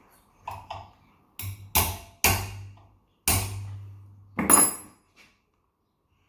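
Metal-on-metal tapping: two light taps, then five hard strikes at uneven intervals, each ringing briefly, as a new 608 ball bearing is driven onto the split AC indoor fan motor shaft with a screwdriver used in place of a hammer.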